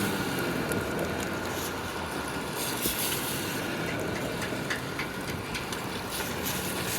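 Steady street traffic at a city intersection in the rain: car engines running and idling, with a faint steady high tone over the noise of the wet road.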